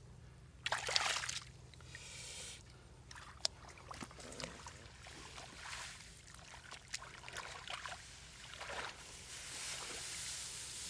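Shallow water splashing and trickling in irregular bursts, with the loudest splash about a second in and a sharp click a few seconds later.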